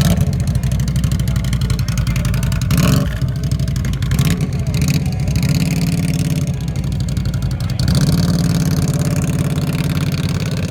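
Off-road vehicle engine running hard under load and revving, its pitch rising and falling, briefly at about three seconds in and again near eight seconds.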